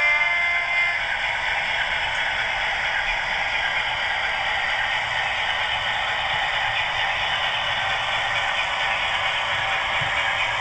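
Hornby Class 60 model locomotive's DCC sound decoder playing the diesel engine running, a steady thin-sounding noise through its small speaker; the last of the horn dies away in the first second.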